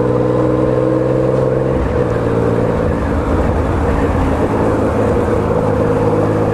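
Motorcycle engine running at a steady low speed in slow traffic, its note shifting slightly about two seconds in.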